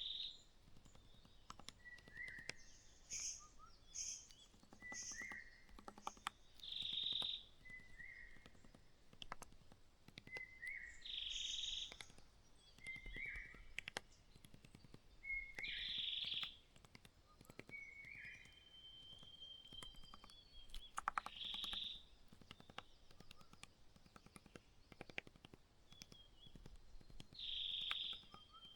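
Small birds giving short chirps, a call every second or two, over faint, rapid clicking.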